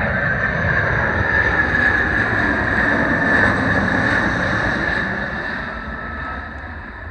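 Jet airliner engines running loud, with a steady whine over a deep rumble, loudest about three and a half seconds in and then fading away.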